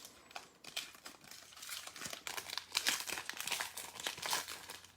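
Packaging crinkling and tearing in a run of small crackles, busier from about two seconds in, as hands work open a stubborn trading card box.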